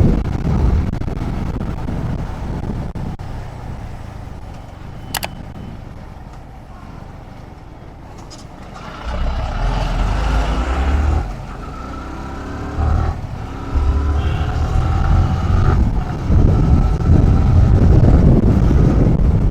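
Motorcycle ride heard from a helmet-mounted camera: engine and wind on the microphone, easing off and quieter for a few seconds in the middle, then louder again from about nine seconds in as the engine pulls with its pitch rising and falling. A single sharp click about five seconds in.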